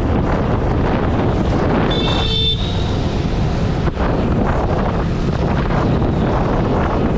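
Wind buffeting a GoPro Hero 8's bare microphone on a moving motorcycle, a steady loud rushing and rumbling over engine and road noise. About two seconds in, a short high-pitched tone sounds for about half a second.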